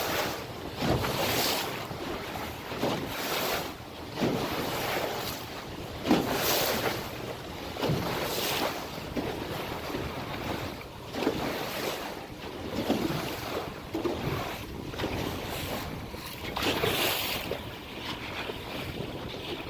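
Sea water splashing and rushing against a boat's hull in irregular surges every second or two, with wind buffeting the microphone.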